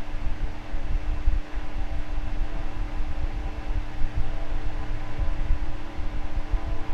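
Electric fan running steadily: a constant whir with a steady hum and an uneven low rumble underneath.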